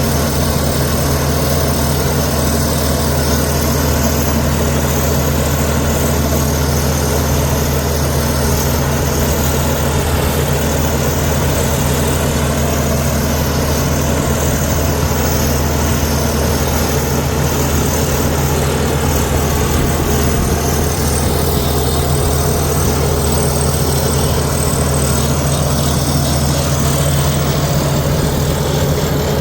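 Diesel engine of heavy earthmoving machinery running at a steady speed, with no rise or fall in pitch.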